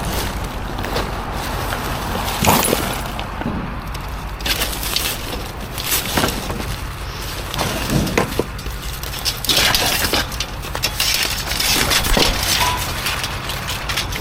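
Scrap metal and hardware being handled and sorted: irregular knocks, clanks and rattles over a steady low hum.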